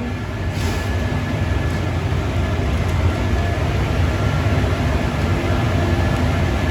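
Steady low rumble of workshop machinery running without a break, with a faint thin whine above it.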